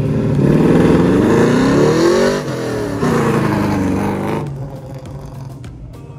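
A car engine revving hard under acceleration, its pitch rising, dipping briefly about two and a half seconds in, then rising again. The sound drops away after about four and a half seconds.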